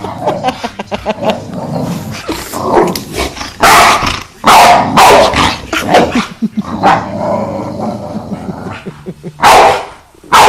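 Dog barking loudly a few times, with lower growling between the barks, as in play-guarding.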